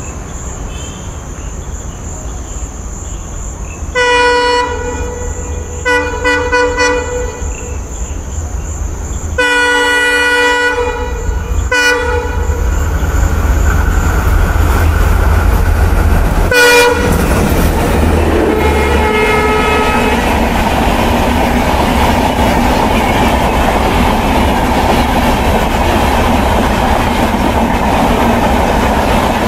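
An Indian Railways locomotive horn sounding several blasts: two short ones about 4 and 6 seconds in and a longer one near 10 seconds. Then an express train of LHB coaches passes at speed with a steady loud rumble and wheel clatter, and a short horn blast comes partway through.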